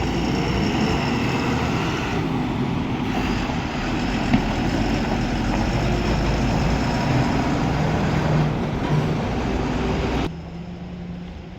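Truck engine running steadily, with a single sharp click about four seconds in; the sound drops suddenly to a quieter level near the end.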